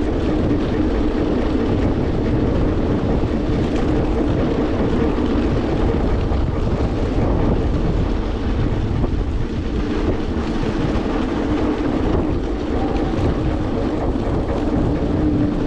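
Electric scooter on the move, with a steady drone, the recurring noise the rider says has come back, over low wind rumble on the microphone.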